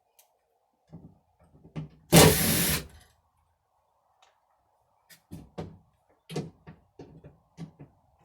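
A cordless drill-driver runs in one short burst, backing a screw out of the coop door's latch to take it off. Scattered clicks and knocks of the hardware being handled come before and after it.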